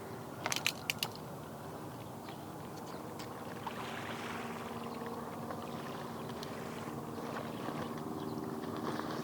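A boat engine humming steadily, coming in about three seconds in and growing a little louder, over an even wash of noise, with a few sharp clicks near the start.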